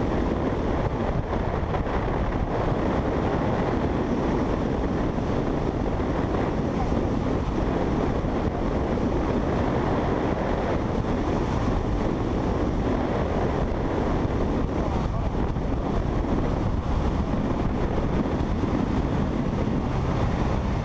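Steady wind rush buffeting the microphone while riding a motorcycle at speed, with the engine's drone running underneath.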